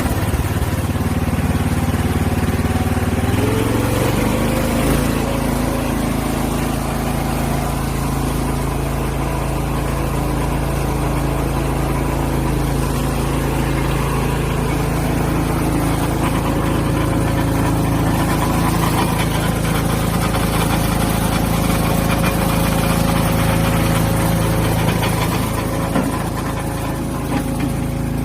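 Engine running steadily to drive a freewheel firewood splitter. Its pitch climbs about three to five seconds in as it spins up, then holds.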